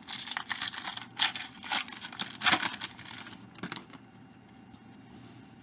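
A trading-card pack wrapper being torn open and crinkled by hand, a quick run of sharp rustling tears lasting about four seconds before it goes quiet.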